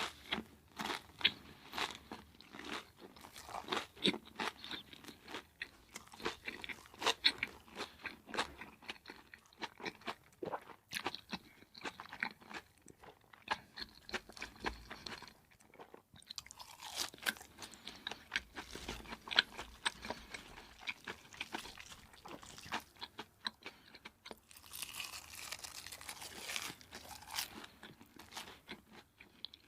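A person biting and chewing crispy fried food: a steady run of sharp crunches, with a short pause about halfway and a dense flurry of crackling near the end.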